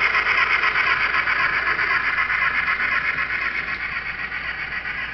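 Sound-decoder steam exhaust chuffing from the small onboard speaker of an N scale Union Pacific steam locomotive model as it pulls its train, growing a little fainter near the end.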